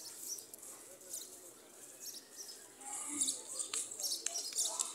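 Small birds chirping in repeated short, high-pitched calls, busier in the second half, over faint distant voices, with a couple of light clicks.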